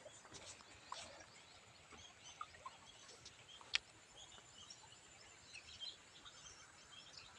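Quiet countryside ambience: faint, scattered bird chirps and a few short whistled notes, with one sharp click a little under four seconds in.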